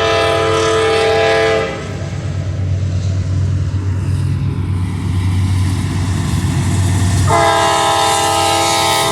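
Diesel locomotive air horn sounding two blasts, the first ending about a second and a half in and the second starting near the end, over the steady low rumble of the locomotive engines and rolling train.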